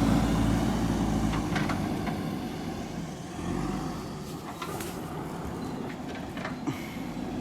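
Backhoe loader's diesel engine running with a steady low hum that dies away over the first second or two, leaving a quieter rumble broken by a few sharp knocks.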